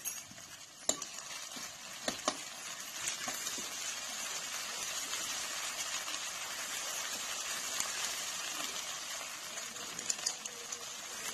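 Onion with pounded ginger, garlic and green chilli sizzling in hot oil in a kadhai, with a few sharp clinks of a spoon against the pan in the first couple of seconds. From about three seconds in the sizzle runs as a steady hiss.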